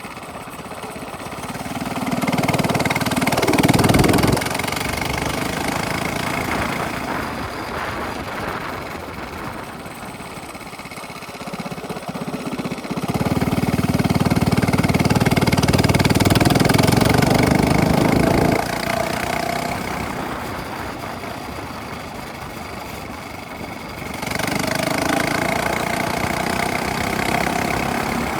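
Minibike engine with a straight-pipe exhaust, revving up and easing off as it is ridden. It rises briefly a few seconds in, holds high revs for several seconds in the middle and then cuts back sharply, and picks up again near the end.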